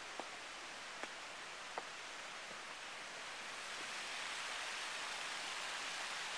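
Steady rushing noise outdoors that grows a little louder about four seconds in, with three faint clicks in the first two seconds.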